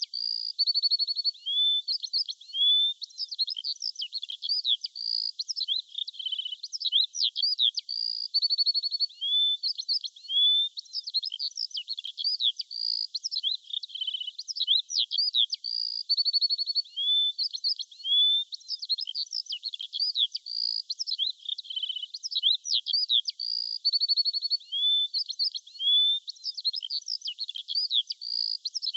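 Songbirds chirping and twittering without pause: many quick high notes that swoop up and down, with a few short buzzy trills mixed in, and no low sound underneath.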